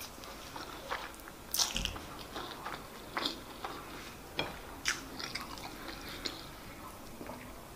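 Close-miked eating sounds of chewing a handful of white rice and stew: irregular wet mouth clicks and smacks, the loudest about one and a half seconds in.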